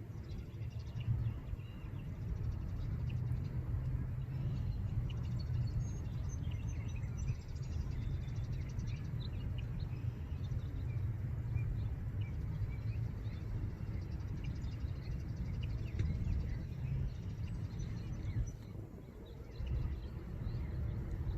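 Small birds chirping here and there in the background over a steady low rumble.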